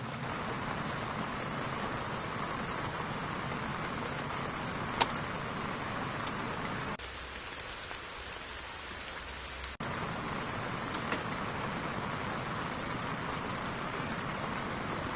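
Steady rain falling, with a few sharp single drops standing out. For a few seconds in the middle the rain turns to a thinner, higher hiss with less low rumble.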